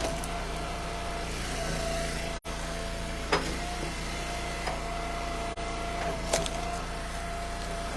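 Eastonmade Ultra hydraulic log splitter running steadily, its engine and pump giving a constant hum with a steady whine. Two sharp cracks or knocks stand out as ash rounds are split.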